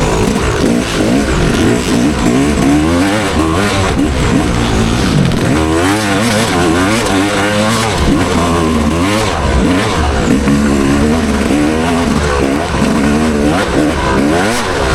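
Motocross dirt bike engine revving hard and falling back again and again as it is ridden around the track, over wind rush.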